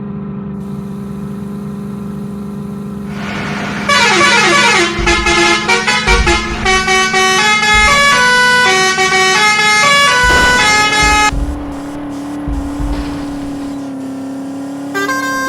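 Tractor's musical horn playing a quick tune of stepped notes over a steady held tone, loudest from about four to eleven seconds in. It then settles into a single held note.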